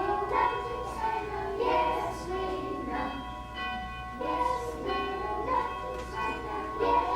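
Children's choir singing phrases of a song with musical accompaniment, and a steady high tone running underneath.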